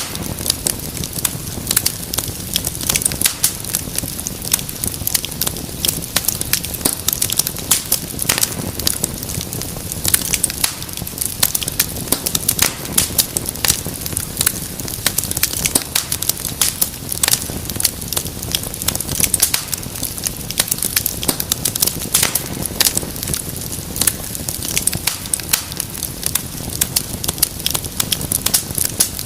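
Wood fire crackling: dense, irregular sharp pops and snaps over a steady low rush of flame.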